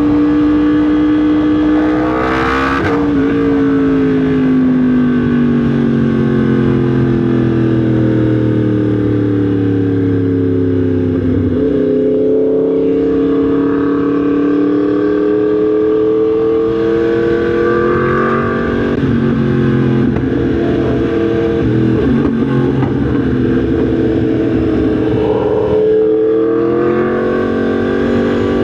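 Yamaha MT-10 SP's crossplane inline-four engine running on the road, its note sliding down for about ten seconds, then climbing again, with further dips and climbs as the throttle is eased off and opened. A short rush of noise cuts across it about two and a half seconds in.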